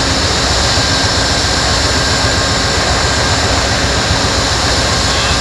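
Train passing close by: a loud, steady roar with a low rumble underneath.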